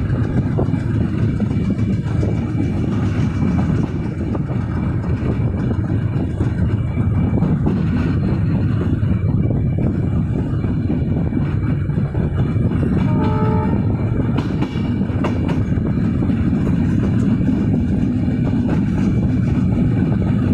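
Silkcity Express passenger train running along the track, a steady rumble of wheels and carriage. A brief horn sounds about two-thirds of the way through.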